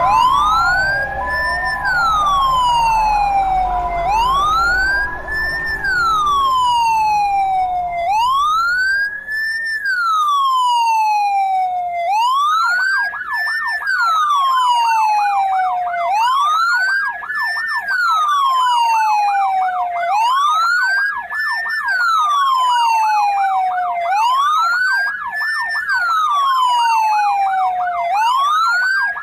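Electronic ambulance siren wailing. Each cycle rises quickly and falls slowly, repeating about every four seconds. From about twelve seconds in, a faster warbling siren tone sounds alongside it. A low rumble underlies the first part.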